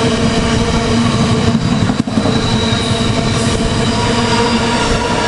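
Freight train of ash wagons rolling past at speed close by: a loud, steady rumble of wheels on rail with a steady whine running through it, briefly dipping about two seconds in.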